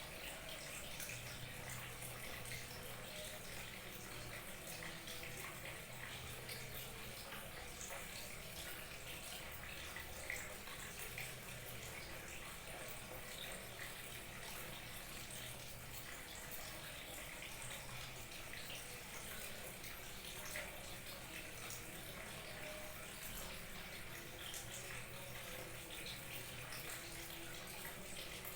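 Small waterfall trickling and splashing steadily, an even rush of water with fine droplet patter.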